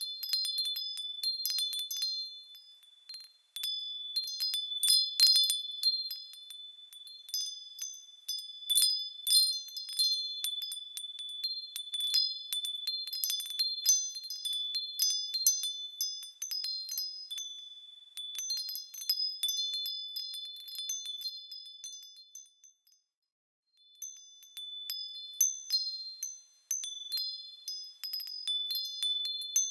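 Small high-pitched bells swaying and ringing, many irregular overlapping strikes over a sustained high tone, with a short pause about three-quarters of the way through.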